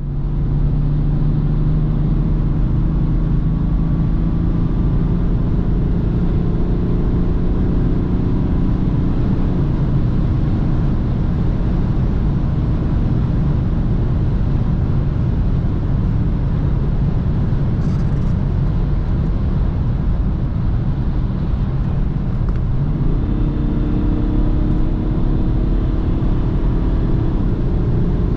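BMW 330d's three-litre straight-six diesel running steadily under way, over road and wind noise. About two-thirds of the way through, the engine note climbs quickly and then holds at a higher pitch.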